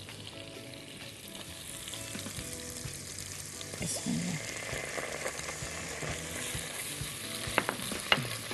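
Chopped onion frying in oil in a pot, sizzling steadily as a silicone spatula stirs it. About four seconds in, tomato paste goes in and the sizzle brightens. Two sharp clicks come near the end.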